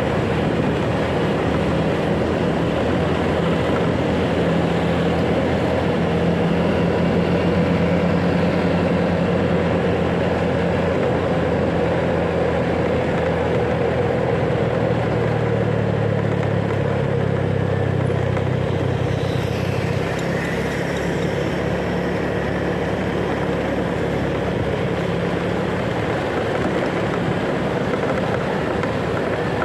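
Motorcycle engine running steadily while riding in city traffic, with road and wind noise.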